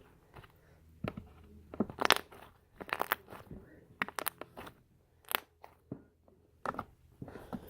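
Slime being squished and worked by hand, giving irregular sticky pops and crackles.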